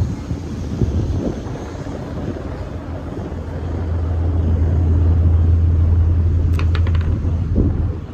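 Low, steady rumble of a boat engine, swelling louder about halfway through and easing off near the end, with a few short clicks just before it eases.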